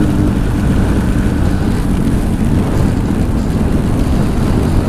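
Motorcycle riding at highway speed, picked up by a helmet-mounted mic: a steady rush of wind noise with the Honda CBR1000's engine running underneath. A steady engine tone fades out just after the start.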